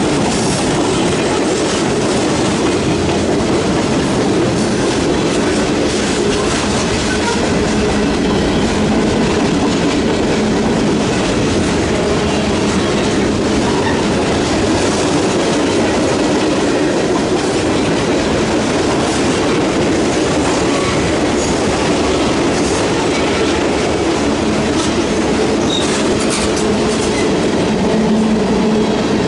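Freight cars of a mixed manifest train rolling past close by: the steady, unbroken noise of steel wheels running on the rails.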